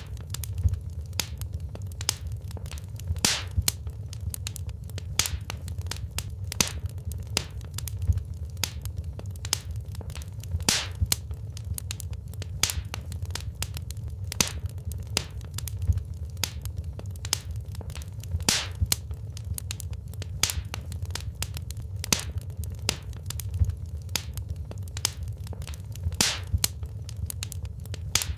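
Wood fire burning in a fireplace: a steady low rumble of flames under constant irregular crackling and sharp pops from the burning logs.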